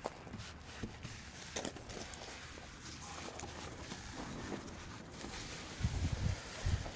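Hand work on a fibreglass layup on a boat rudder, the cloth being laid and worked with resin: faint scattered taps and rubbing, with a run of low thumps near the end.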